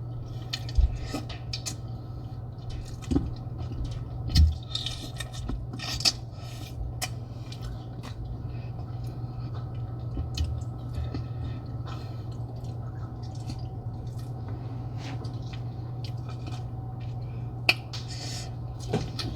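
Close-up eating sounds: chewing and wet mouth noises with scattered clicks and taps, over a steady low hum. A few dull thuds come in the first few seconds.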